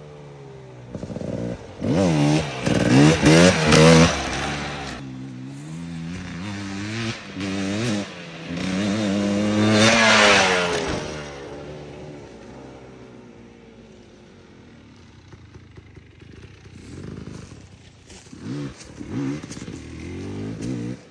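KTM 300 XC two-stroke dirt bike engine revving hard in bursts, its pitch climbing and falling as the throttle opens and shuts. It is loudest twice, about two to four seconds in and again around ten seconds, then drops back to quieter running with brief blips of throttle.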